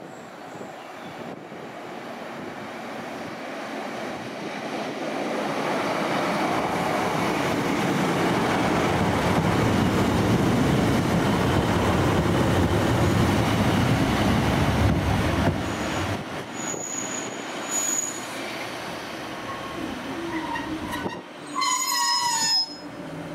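Class 150/1 diesel multiple unit running into a station: the engine and wheels on the rails grow louder to a peak about halfway, then ease off as it slows. Near the end come brief high squeals from the brakes and wheels as it draws to a stop, the last one loudest with a slightly falling pitch.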